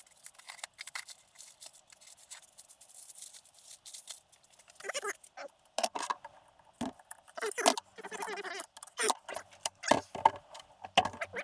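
Small metal parts and hand tools clinking and rattling as they are handled, a run of irregular sharp clicks and clatters that grows busier about halfway through.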